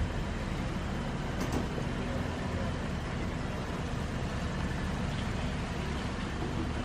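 Steady rumble of road traffic, with an isolated faint click about a second and a half in.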